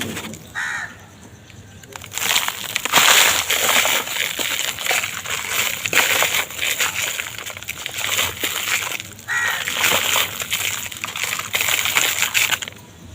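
Dry, dusty material being crumbled: a dense run of crackling, gritty crunching that starts about two seconds in, after a quieter opening, and stops just before the end. A short pitched squeak-like sound comes near the start and again about nine seconds in.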